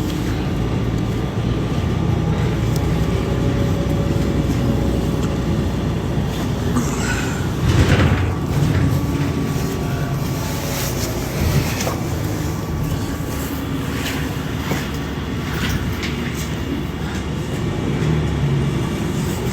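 Moving city bus heard from inside the cabin: steady engine and road rumble, with a few knocks and rattles, the loudest a thump about eight seconds in.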